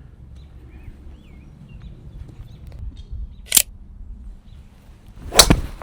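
Golf club striking a ball off the tee about five seconds in, a single sharp crack, with a smaller click about two seconds before it.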